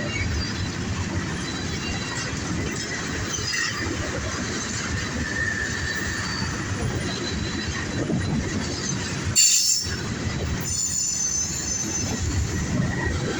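Freight train cars of a Norfolk Southern train rolling past with a steady rumble and clatter of wheels on rail, and faint high wheel squeal. About nine and a half seconds in, a short, sharp, louder squeal rings out, followed by a second burst of high squealing tones a second later.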